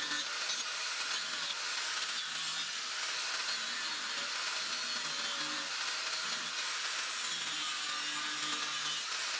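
Continuous abrasive scraping of a tool working a small knife blank, a steady hiss without pauses.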